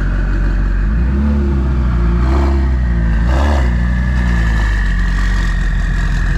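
A car engine running loud and low, revved twice so its pitch rises and falls, between stretches of steady idle.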